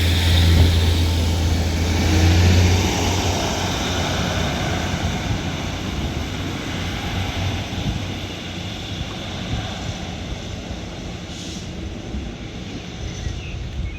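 Class 156 Super Sprinter diesel multiple unit pulling away from the platform. Its underfloor diesel engines make a deep, steady drone that drops away about three seconds in, and then the train's running noise slowly fades as it leaves.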